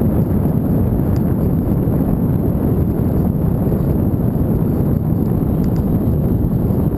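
Wind buffeting the microphone as a bicycle is ridden: a steady, loud low rumble with no let-up.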